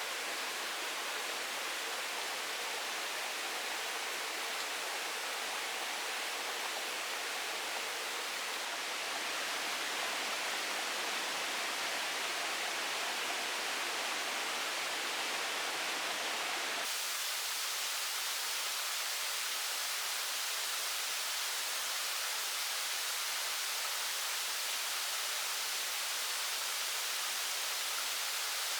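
Steady rushing sound of water, even and unbroken. About 17 seconds in it shifts abruptly to a thinner, hissier sound.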